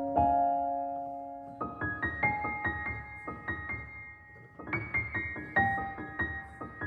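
Soft background piano music: a held chord fading out, then gentle runs of notes in a higher register about a second and a half in.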